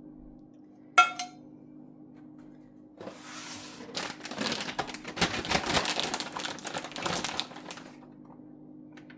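Kitchen utensils and dishes: a single ringing clink about a second in, then several seconds of dense clattering and scraping, over a low steady hum.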